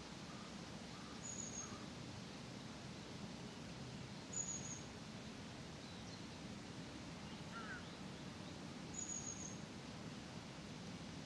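Outdoor park ambience: a steady soft hiss over a low distant hum, with a small bird giving three short, high calls about three to four seconds apart.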